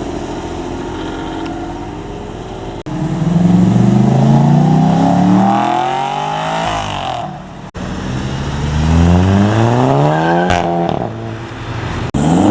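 Car engines accelerating hard, their note climbing steadily as the revs rise, in three or four short takes joined by abrupt cuts.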